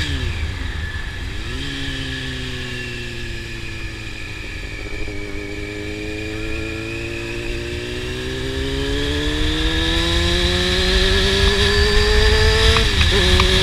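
Honda CBR600 sport bike's inline-four engine through a slip-on exhaust, riding on the road. There are two quick gear shifts in the first couple of seconds, then the revs ease off. From the middle the revs climb steadily and grow louder as the bike accelerates, with another quick shift near the end.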